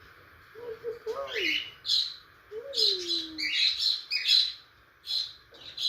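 Budgie chirping: a run of short, bright chirps, a few each second, with a few softer falling tones lower down.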